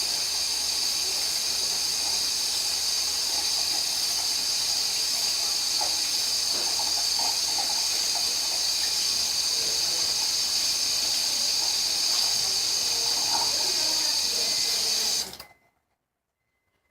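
Bathroom sink tap running steadily as a troll doll's hair is wetted under it, then turned off abruptly near the end.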